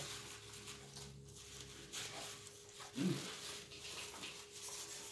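A person chewing a mouthful of salad with irregular crunching mouth noises. There is a short hummed "mm" about three seconds in.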